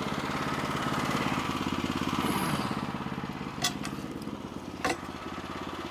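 Portable sawmill's engine running steadily, a little quieter from about halfway through. Two short sharp clicks about a second apart near the end.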